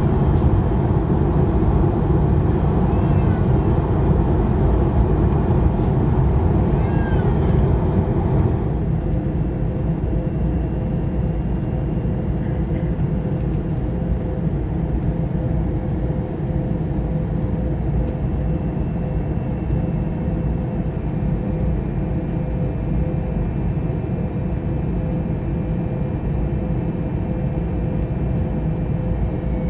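Steady in-flight cabin drone of an Airbus A321neo: Pratt & Whitney PW1100G geared turbofans and airflow heard from inside the cabin. About eight seconds in it drops a little and loses its upper hiss, leaving a lower drone with a faint steady hum.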